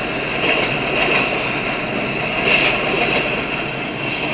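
Freight cars of a slow-moving train rolling past on the rails: a steady noise of wheels on track with a thin high whine over it and a few light clicks.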